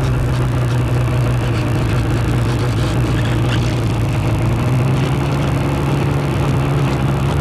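Motorcycle engine running at a steady, unchanging pitch while the bike rides slowly, with road noise on the bike-mounted microphone.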